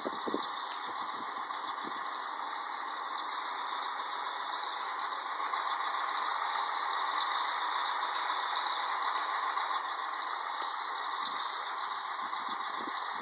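Steady road and running noise inside the cab of a 1998 Scania 112HT 360 truck under way, with a few light rattles in the first couple of seconds and again near the end.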